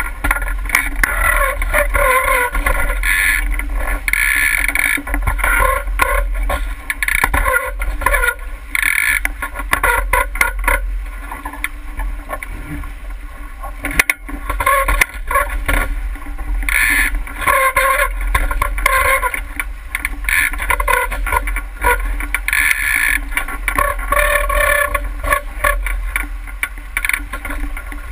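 Wind buffeting the microphone in a steady low rumble while water rushes and splashes along a 49er skiff's hull under sail, the noise rising and falling unevenly.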